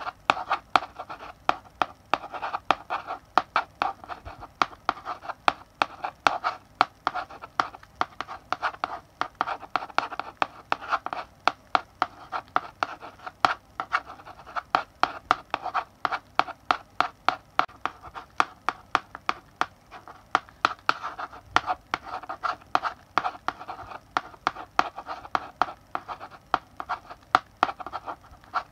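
Chalk writing on a blackboard: rapid, uneven taps of the chalk striking the board, several a second, mixed with the scratch of the strokes.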